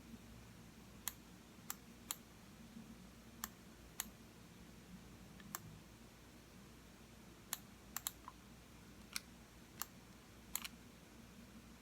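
Computer mouse button clicking, about a dozen sharp clicks at irregular intervals, including a quick double click about eight seconds in, over a faint low hum.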